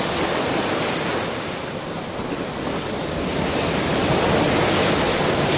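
Ocean surf: waves washing in, a steady rushing wash that eases slightly about two seconds in and swells again toward the end.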